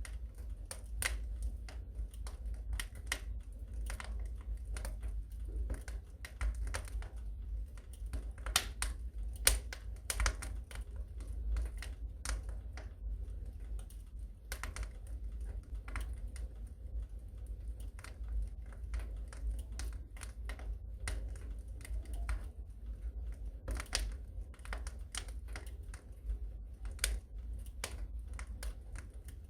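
Wood fire in a fireplace crackling, with irregular sharp pops and snaps several times a second over a steady low rumble. A few louder pops come about a third of the way in.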